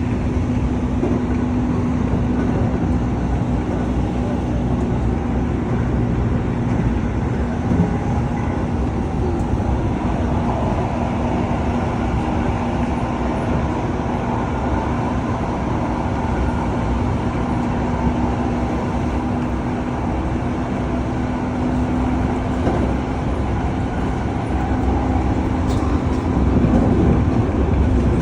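Keihan electric train running, heard from inside the carriage: a steady rumble of wheels and running gear with a constant low hum, growing slightly louder near the end.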